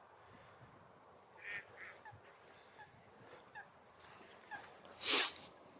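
Waterfowl calling from the marsh pools: scattered short honking and quacking calls, some with a quick falling pitch. About five seconds in, a brief, louder rush of noise.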